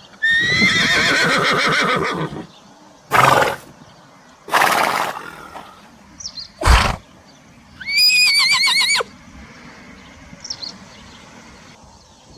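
Horse whinnying: a long neigh at the start, a few short breathy blows in the middle, and a high, trembling whinny about eight seconds in.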